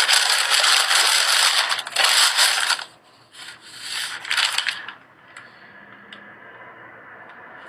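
Loud rubbing and scraping noise for about three seconds, then a few shorter scraping bursts, fading to a faint steady tone with a few small ticks.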